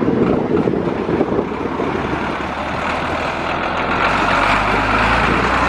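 Vehicle engine running with a steady low hum that grows louder from about halfway through as the vehicle leaves, with rumbling wind noise on the microphone in the first half.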